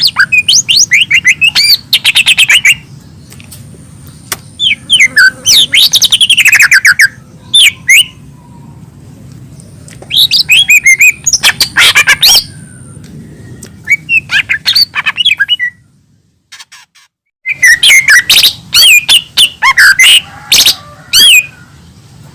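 Lesser green leafbird (cucak ijo mini) singing loud phrases of rapid chirps, gliding whistles and squawky notes, each phrase a second or two long with short pauses between. The sound drops out completely for about a second and a half near two-thirds through.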